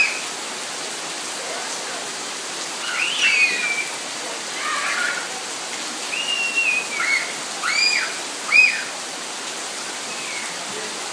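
Steady rain falling, with children's short high-pitched squeals and shouts several times in the middle, the loudest near the end.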